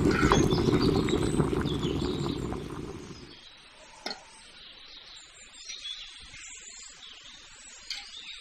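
Rice boiling hard in an aluminium pot on a burner: a loud, steady low rumble with hiss, which stops suddenly about three seconds in. After that it is much quieter, with a couple of faint clinks of a metal wire skimmer against the pot.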